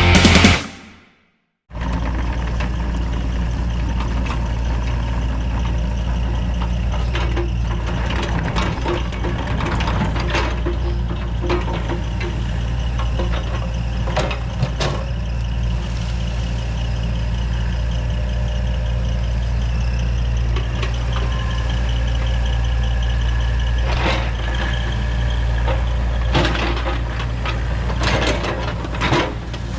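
Music cuts off in the first second. Then an excavator's diesel engine runs steadily, with scattered metallic clanks and scrapes of digging through the work.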